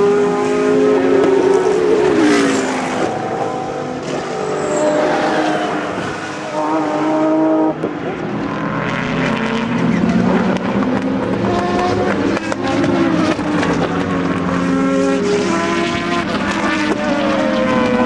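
Several endurance race cars passing at speed one after another, their engines revving and rising and falling in pitch through gear changes.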